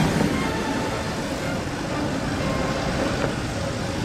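A passing train's running noise, steady and even throughout.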